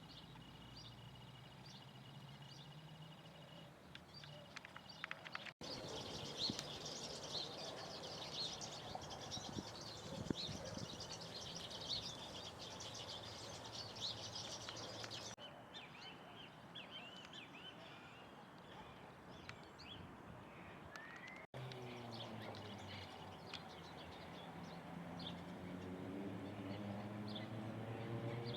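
Small birds chirping and calling in quick short notes over a low background hum, in a few joined segments; the hum rises in pitch near the end.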